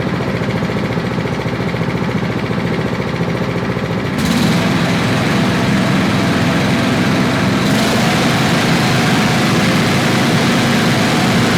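Briggs & Stratton 9.5 hp OHV engine on a Billy Goat Force leaf blower running steadily, then revving up about four seconds in as the throttle is opened, with the blower's rush of air growing louder, and rising a little more around eight seconds in. The freshly restored engine runs smoothly.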